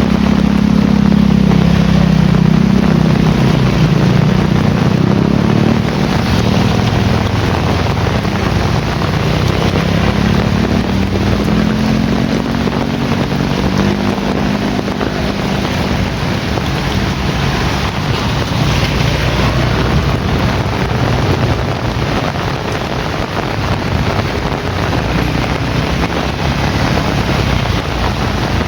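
Heavy rain pouring steadily, with a low rolling rumble of thunder that swells near the start and again about halfway through.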